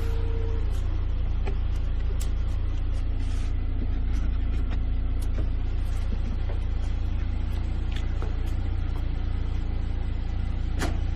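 Car engine idling with a steady low rumble, and a few faint scattered clicks.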